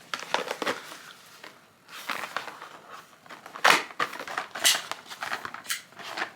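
Packaging of an at-home dental impression kit being handled: rustling, crinkling and light clicks, with one sharper, louder crackle a little past halfway.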